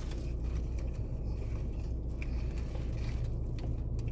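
Steady low hum of a car heard from inside the cabin, with a few faint small clicks.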